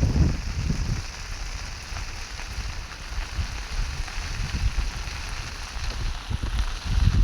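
Steady rain falling, an even hiss, with low gusts of wind buffeting the microphone in the first second and again near the end.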